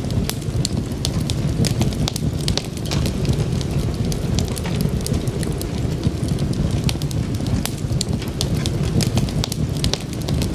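Wood fire burning, with a steady low rumble and frequent irregular sharp crackles and pops from the burning logs.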